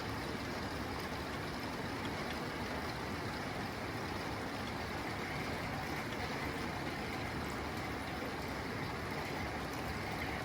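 Steady rain falling on a tin roof: an even, unbroken hiss of drops.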